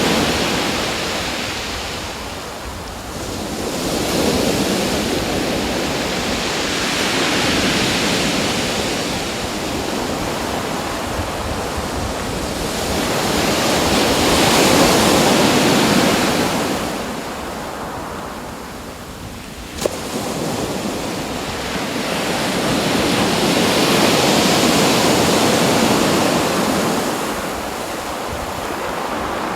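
Waves washing in, a steady rushing hiss that swells and fades every several seconds. A single sharp click comes near the two-thirds point.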